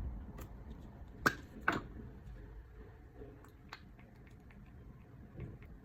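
Small clicks and taps from handling a serum dropper bottle, with two sharp clicks a little over a second in and fainter ticks after.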